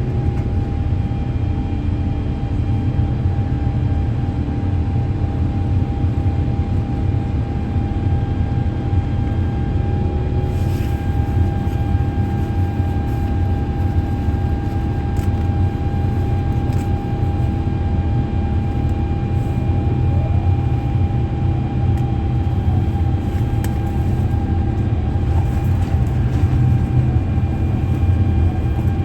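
Cabin noise of an Airbus A350-900 heard from inside: the Rolls-Royce Trent XWB engines running steadily under power, a constant low roar with a steady whine over it.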